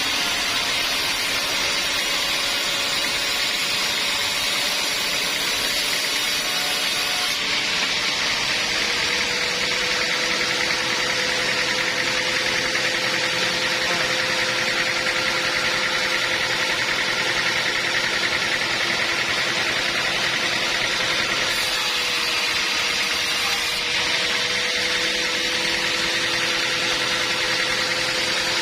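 Band sawmill running steadily: a constant mechanical whine with a hiss over it. The top of the hiss drops away about seven seconds in and comes back briefly a little after twenty seconds.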